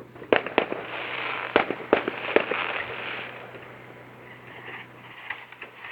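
Aerial fireworks going off: several sharp bangs in the first two and a half seconds with a dense crackle between them, then a fainter crackle with a few small pops.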